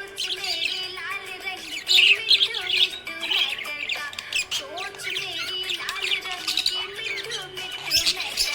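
Budgerigar chirping and warbling in quick, squiggly runs, with the loudest calls about two seconds in, over background music.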